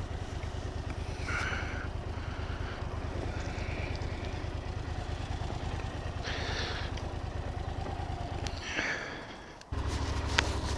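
Motorcycle engine idling with a steady, even rumble. The rumble dies away about nine seconds in and starts again abruptly a second later.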